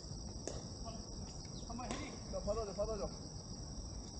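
A steady, high-pitched chorus of insects, with faint voices in the distance about halfway through.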